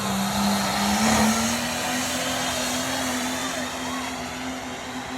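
Truck engine running hard at high, steady revs under load, its pitch rising slightly about one and a half seconds in and then holding, growing a little quieter toward the end.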